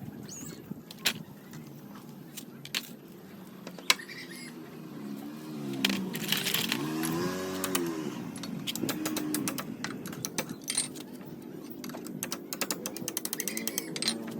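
Metal clinks and clatter from tools and parts being handled, scattered sharp knocks over a low steady background. A wavering pitched sound comes in about five seconds in and fades out a few seconds later.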